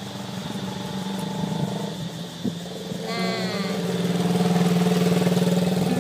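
Motorcycle engine idling steadily, swelling a little louder past the middle. A short wavering high-pitched sound comes about three seconds in.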